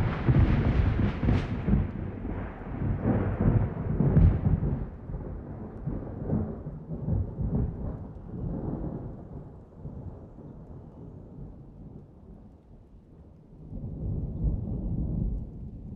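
Thunder in a rainstorm, starting abruptly: a loud rolling rumble with sharper cracks about one and a half and four seconds in. It dies away slowly and rises into a second roll near the end, over a steady hiss of rain.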